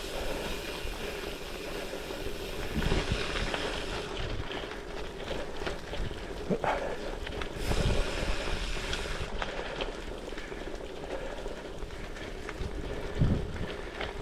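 Goodyear Connector gravel tyres rolling steadily under a moving bicycle, with wind buffeting the microphone in several low gusts.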